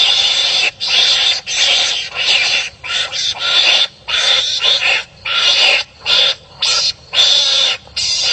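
Repeated harsh, raspy animal calls, about one and a half a second with short gaps between them: wild animals barking at each other as they fight.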